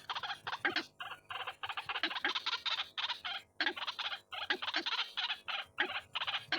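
White-breasted waterhen (ruak-ruak) calling: rapid runs of short, harsh notes repeated several times a second, broken by brief pauses.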